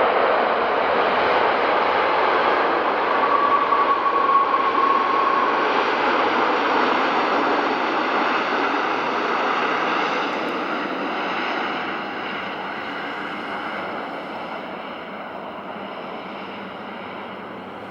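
Jet airliner's engines passing, a loud steady rush that slowly fades away, with a brief high whine about three to five seconds in.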